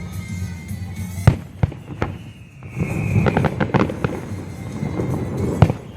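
Display fireworks bursting in sharp, separate bangs, with a rapid cluster of reports in the middle and another bang near the end, over a jazz music soundtrack. A high whistling tone slides down in pitch through the middle.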